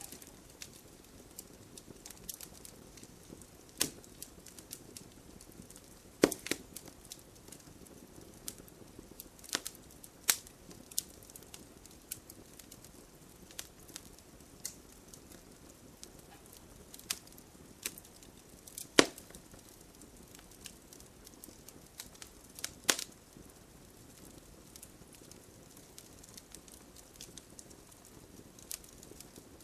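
Wood fire burning in a fireplace: a low hiss with irregular crackles and sharp pops, the loudest snaps about 6, 10, 19 and 23 seconds in.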